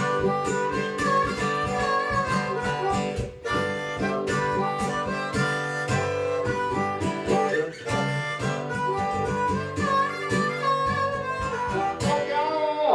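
Instrumental break of a country-rock song: a strummed guitar keeps a steady beat under a wavering lead melody line.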